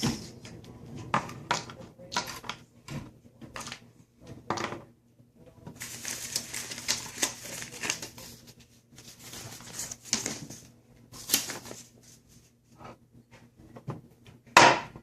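Small hard objects being handled: scattered clicks and knocks with stretches of rustling, and one loud sharp knock near the end.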